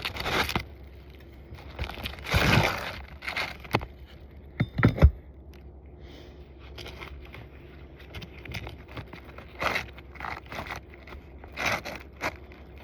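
Asphalt roof shingles being worked loose to free roofing nails: irregular scraping and crackling, with a few sharp knocks, the loudest about five seconds in.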